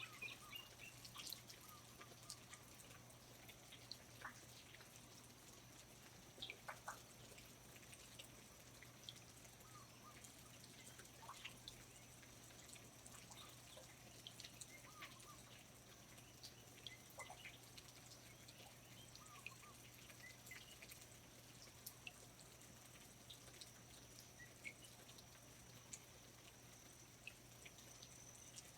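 Faint rainforest ambience: scattered water drips and ticks, with occasional short high chirps, over a steady thin high tone and a low hum.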